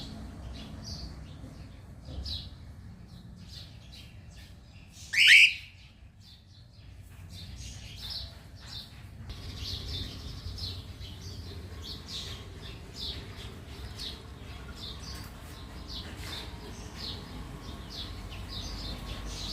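Many short bird chirps repeat throughout. About five seconds in comes one loud cockatiel call that slides upward in pitch. A low steady rumble runs underneath.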